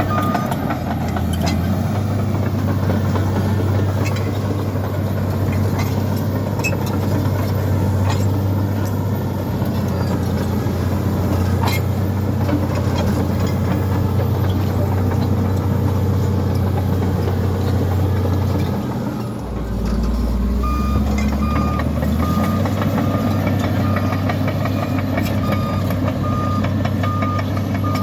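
Komatsu bulldozer's diesel engine running steadily. About two-thirds in, its note drops lower for a few seconds, then picks up again as a reversing alarm starts beeping regularly to the end.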